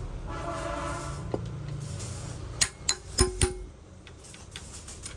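A brief chord of musical tones over a low rumble, then four sharp metallic clinks with a short ring, spaced about a quarter-second apart.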